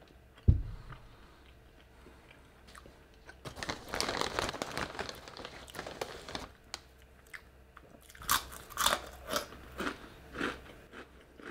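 Close-miked crunchy biting and chewing of fried food: a dense run of crunching in the middle, then about six separate crunchy bites near the end. A single dull thump about half a second in.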